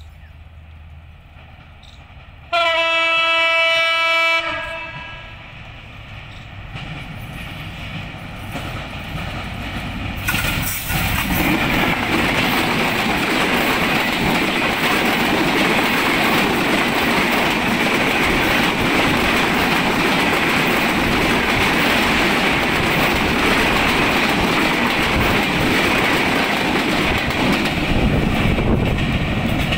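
ALCO diesel locomotive passing close by: one loud horn blast about two seconds long a few seconds in, then the locomotive's rumble grows as it approaches and passes about ten seconds in. The passenger coaches follow with a steady clatter of wheels over the rails.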